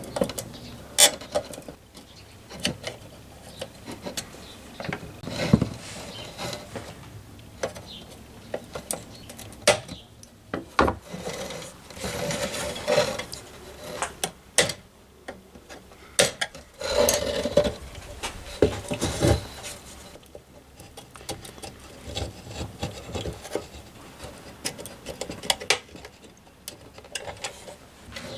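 Hand-tool work on an old metal lantern: intermittent scraping and rubbing strokes, with irregular knocks and clinks of metal parts.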